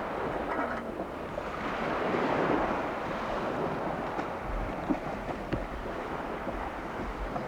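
Water washing and splashing with wind buffeting the microphone, the rumble of the gusts stronger in the second half, and two light knocks about five seconds in.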